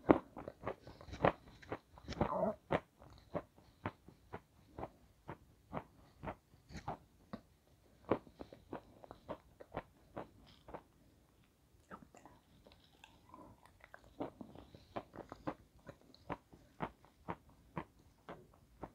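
Close-miked chewing of crunchy, snow-white, chalk-like chunks: a rapid run of short crunches, about three a second, loudest in the first couple of seconds, with a short lull a little past the middle.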